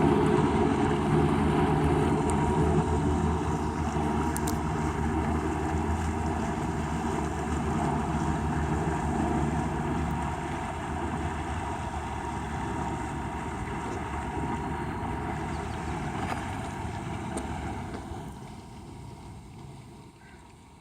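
Motorboat engine running steadily with water washing against the hull, growing fainter over the last few seconds.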